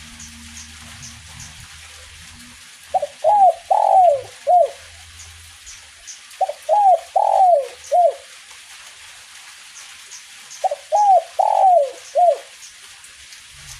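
Spotted dove (derkuku) cooing: three phrases of about four arched, falling coo notes each, a few seconds apart.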